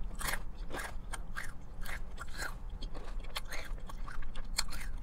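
Close-up chewing of crispy fried chicken, with irregular crunches throughout.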